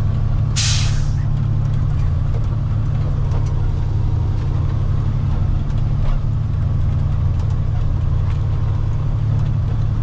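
Water truck's engine running steadily under way in a low gear, with one short hiss of released air from the air brake system about half a second in.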